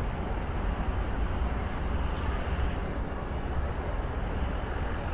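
Steady road traffic noise with a low rumble, with no distinct events standing out.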